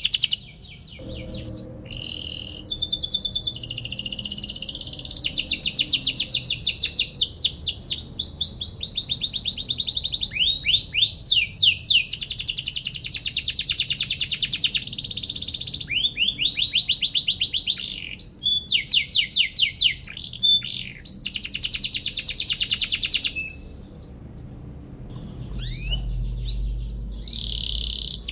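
Domestic canary singing long, high-pitched phrases of fast trills and rapidly repeated chirps, one run following another, with a pause of about two seconds near the end.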